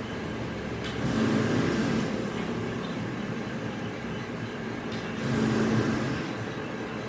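Steady mechanical running noise with a low hum, swelling louder twice, about a second in and again about five seconds in.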